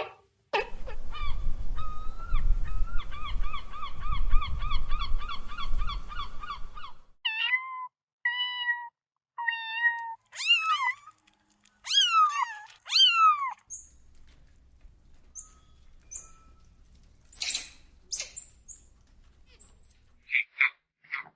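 Domestic cat meowing: first one long, wavering drawn-out call, then a run of short meows and several longer meows that fall steeply in pitch, with a few faint high squeaks later on.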